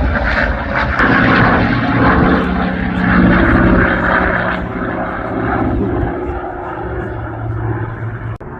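Piston-engined propeller warbird making a display pass with a loud, steady engine drone, strongest in the first half and easing off over the last few seconds as it moves away.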